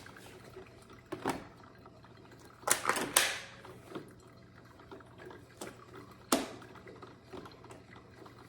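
A few sharp clicks and clunks of coffee machines being handled and set up: one about a second in, a short cluster near three seconds, and another a little after six seconds.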